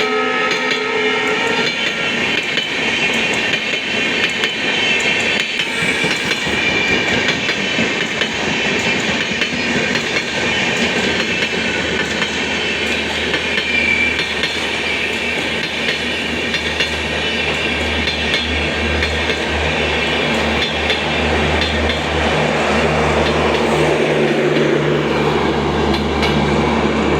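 The horn of a WDP4D diesel locomotive ends about a second and a half in, and then a superfast express train's coaches roll past with steady wheel and rail clatter. About two-thirds of the way through, a low steady engine hum rises under the rolling noise.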